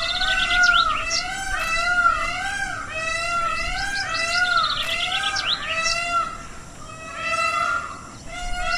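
A bird calling: a quick run of short, pitched, arching notes, about three a second, mixed with bursts of rapid high chirps. The calls ease off twice near the end.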